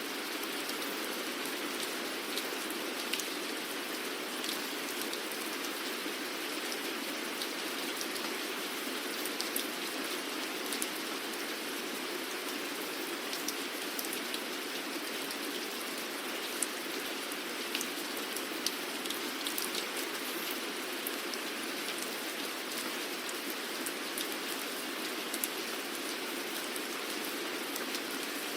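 Steady rain falling, an even hiss with scattered individual drops ticking sharply against a surface.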